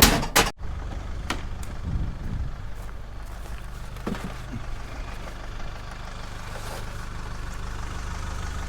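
Two sharp knocks at the start, then a vehicle engine idling with a steady low hum.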